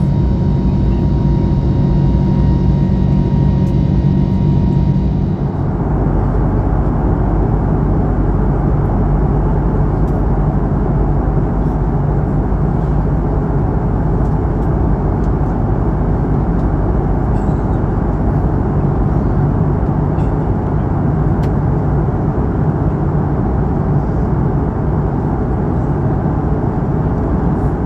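Airbus A321neo jet engines and airflow heard inside the cabin. A steady noise with a thin whine gives way, about five and a half seconds in, to a fuller, louder rushing sound that holds steady.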